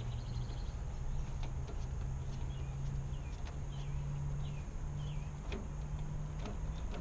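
A few short bird chirps over a steady low hum, with scattered light clicks and taps.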